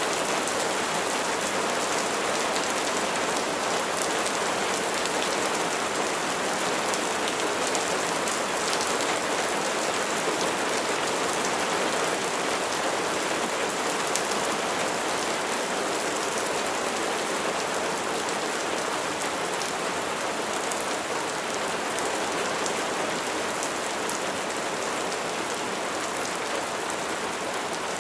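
Steady rain falling, a dense even hiss with many fine drop ticks, as of rain hitting a hard surface.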